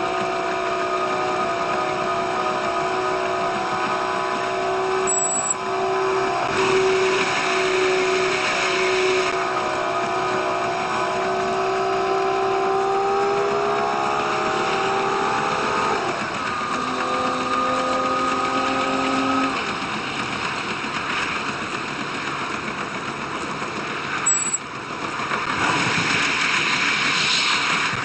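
A diesel railcar running on the line, heard sped up five times: the engine drone shifts its note in small steps, drops to a lower note about two-thirds of the way through and then fades, over running noise that swells twice. Two brief, very high beeps sound about five seconds in and again near the end.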